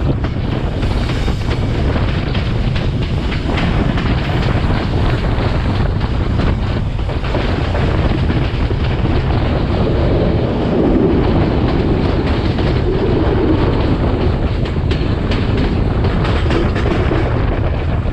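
Class S13 diesel multiple unit running along the line, a steady loud running noise with the wheels clicking over the rails and wind on the microphone. The running note grows a little fuller about ten seconds in.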